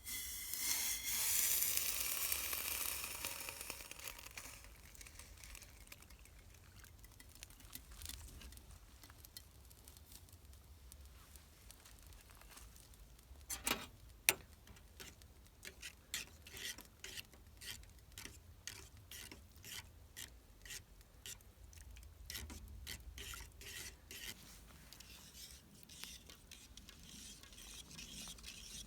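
Campfire cooking: food sizzling in a hot pan, loud at first and fading over the first few seconds, then a run of light clicks and taps of a utensil stirring against the pan, the sharpest about halfway through.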